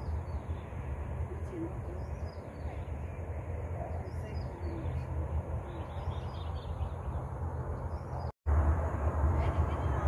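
Small birds chirping in short scattered clusters over a steady low rumble. The sound drops out for a moment about eight seconds in, and the rumble comes back louder.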